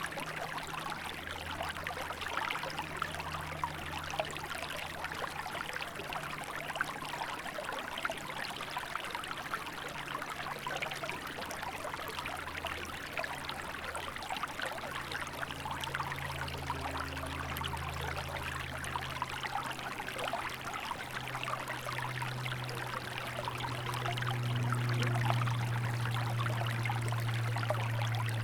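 Small river flowing and splashing steadily over its bed. A low steady drone sits underneath and grows louder in the last few seconds.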